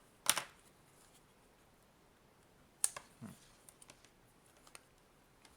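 Two sharp clicks of hard plastic, one just after the start and a louder-than-the-rest pair near the middle, then a few light ticks, as the screwless case of a Nintendo Switch AC adapter is pried at. The case does not give: the owner takes it to be friction welded.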